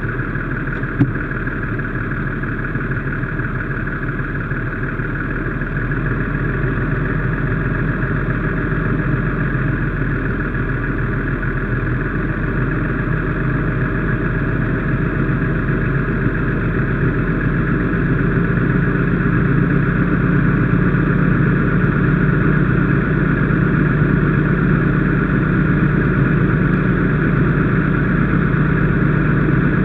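Fire engine running steadily, growing a little louder partway through, with a single click about a second in.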